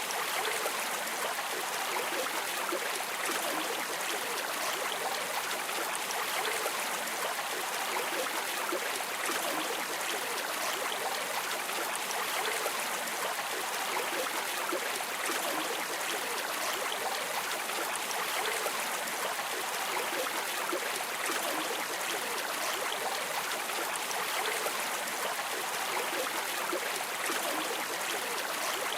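A river stream flowing steadily over stones: an even rushing and trickling of water with no pauses.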